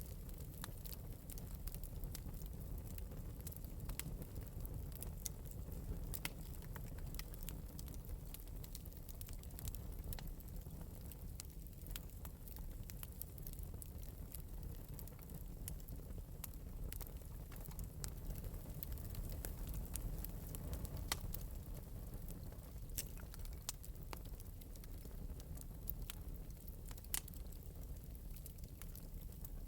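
Wood fire burning in an open metal fireplace, crackling lightly with scattered small pops over a steady low rumble of flames.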